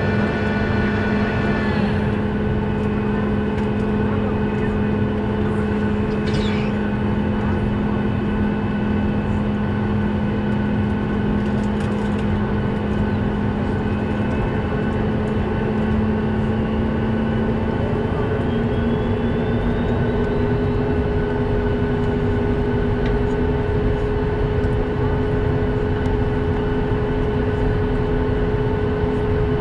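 Steady mechanical hum inside a Boeing 737 cabin on the ground, with droning tones that step slightly higher about two-thirds of the way through and a faint rising whine in the middle.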